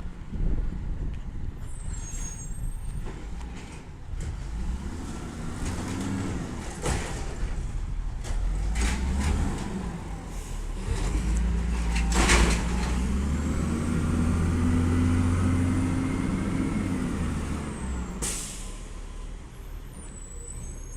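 Peterbilt 320 side-loader garbage truck's engine running, revving up and holding higher for a few seconds past the middle, with two short air-brake hisses, one just before the rev and one as it drops back.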